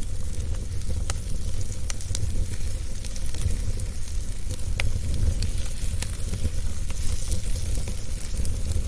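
Wood fire burning in a fireplace: a steady low rumble and hiss with scattered sharp crackles and pops, the clearest about a second in and near five seconds.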